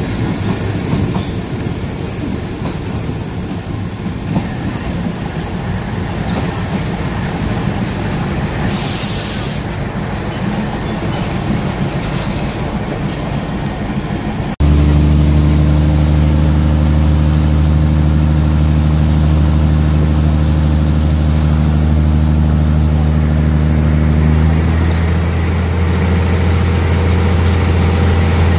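Passenger train running on the rails with thin, high wheel squeals as it slows. About halfway through it cuts abruptly to a loud, steady, low diesel engine drone, whose note changes about ten seconds later as the train moves off.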